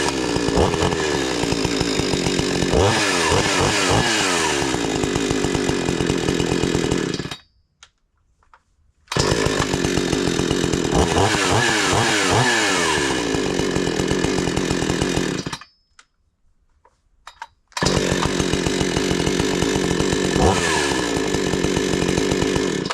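Two-stroke chainsaw engine running on a test run after a bar stud repair, revving up and falling back several times. The sound cuts out to near silence twice, about seven and fifteen seconds in, and comes back each time at full running.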